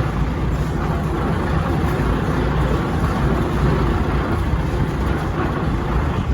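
Loaded DAF dump truck's diesel engine running steadily as the truck drives along a forest track.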